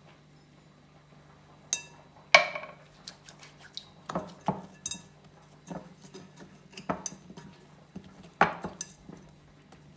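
Kitchenware being handled on a counter: a quiet start, then a run of irregular clinks and knocks, the loudest about two seconds in, over a steady low hum.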